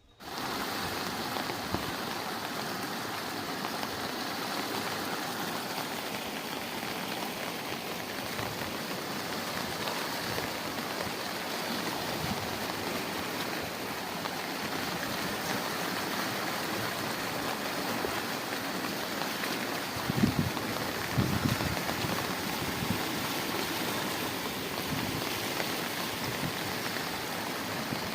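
Steady rushing hiss of water from heavy rain and floodwater. A few short low thumps come about two-thirds of the way through.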